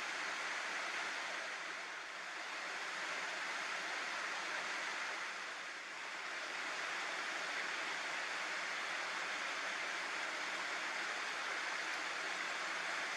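Water rushing steadily over a small river weir, with slight dips in level about two and six seconds in.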